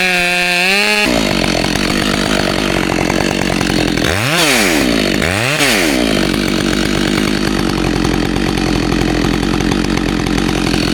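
Gas chainsaw revving up to full throttle and cutting into a pine trunk. The engine's pitch drops sharply and climbs back twice, about four and five and a half seconds in.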